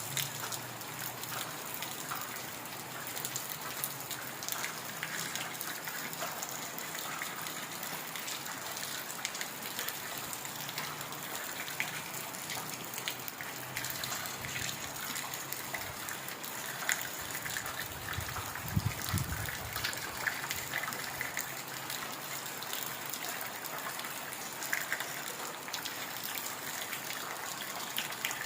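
Heavy rain falling steadily on forest foliage, a dense hiss full of small individual drop hits, with one brief low rumble about two-thirds of the way through.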